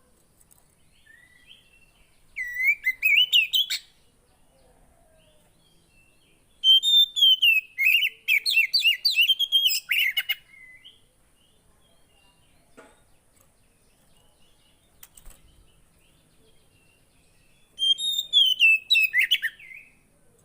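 A poci songbird singing three bouts of rapid, high warbling song, each a quick run of rising and falling notes: a short one about two seconds in, a longer one of about three and a half seconds in the middle, and a short one near the end, with pauses between.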